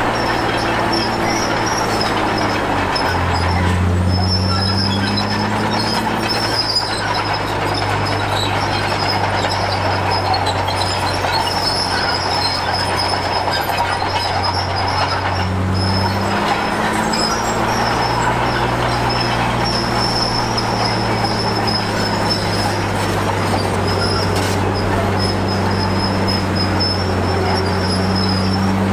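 Komatsu D53P crawler bulldozer working: its diesel engine pulls under load, its pitch dropping and picking up again a couple of times, with a steady high-pitched squeal over it.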